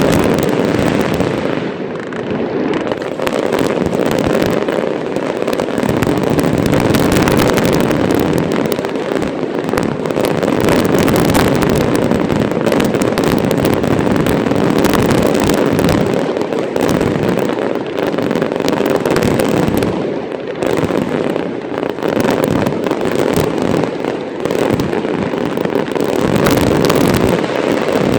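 Fireworks going off in a dense, continuous barrage of bangs and crackling pops.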